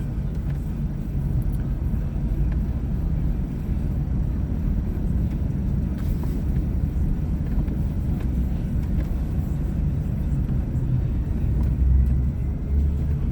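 A vehicle driving slowly through snow: a steady low engine and drivetrain rumble with tyre noise, swelling a little near the end.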